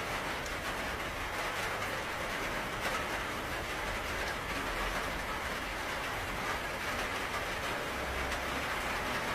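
Steady rain falling: a dense, even hiss with a faint low rumble underneath.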